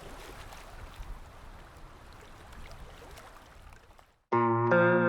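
A faint, steady rushing noise with low rumble and a few light clicks, then music starts abruptly about four seconds in with loud sustained chords.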